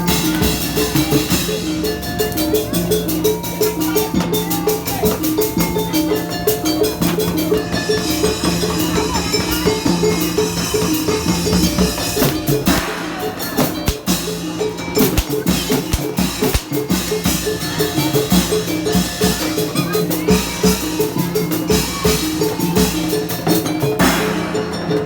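Obrog street music: drums and other percussion play a fast, even, repeating beat, with a melody held over it.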